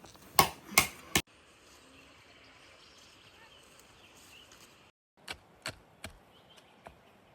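A few sharp knocks or chopping strikes: three loud ones in quick succession, about half a second apart, then after a break four lighter ones, over a faint outdoor background hiss.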